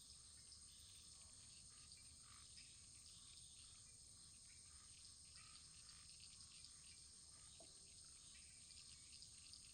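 Wood fire crackling faintly: irregular small pops and ticks over a steady soft hiss.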